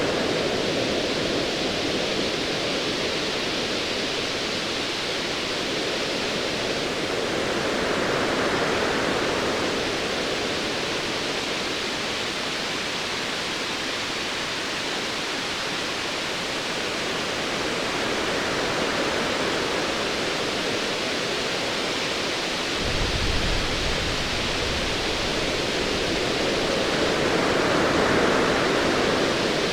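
Ocean waves washing in slow surges, swelling about every ten seconds. About three quarters of the way through, a low rumble of distant thunder comes in under the surf and carries on.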